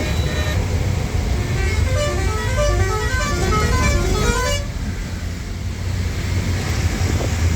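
Lorry engine running with a steady low rumble while a musical horn plays a quick tune of short notes for about three seconds, cutting off suddenly about four and a half seconds in.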